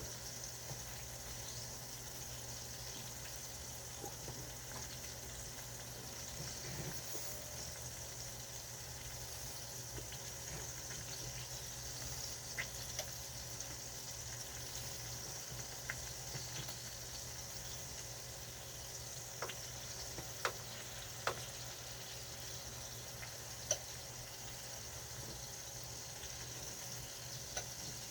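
Food cooking on a stovetop, a steady sizzling hiss, with a few short sharp clicks in the second half.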